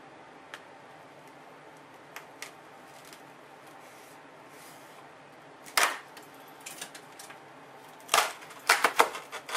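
Styrofoam insulation being pried and broken off a concrete block wall: scattered faint clicks, then a loud crackling snap about six seconds in and a run of louder cracks near the end.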